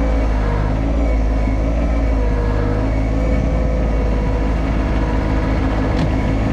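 Yanmar SA324 compact tractor's three-cylinder diesel engine running steadily, with a brief click near the end.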